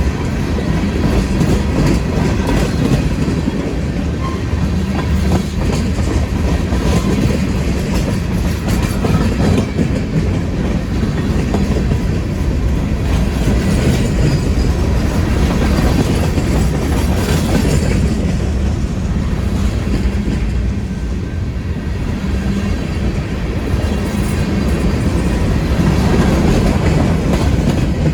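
Freight train cars rolling past, steel wheels clattering over the rails in a steady, loud rumble.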